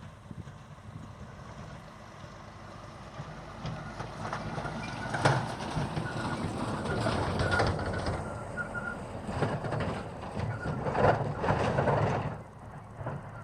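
Freight train rolling past, its wheels clattering over the rail with sharp, irregular clanks and a faint thin squeal. It builds from a few seconds in, is loudest in the second half, and drops off abruptly near the end.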